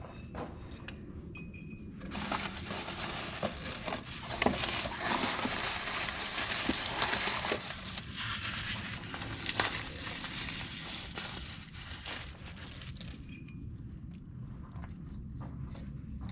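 Rustling and crinkling with scattered sharp clicks, from about two seconds in until about thirteen seconds in.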